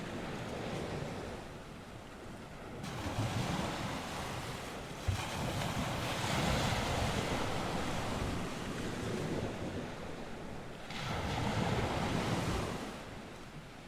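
North Sea waves breaking and washing on the shore in repeated surges that swell and fade every few seconds, with wind blowing across the microphone.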